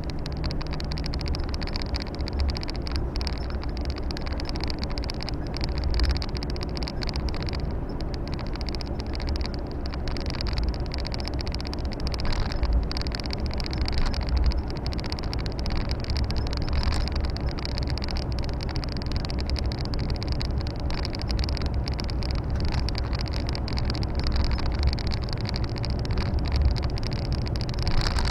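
Volvo FH 460 truck on the move, heard from inside the cab: a steady low drone from its 13-litre six-cylinder diesel with an even hiss of road and wind noise.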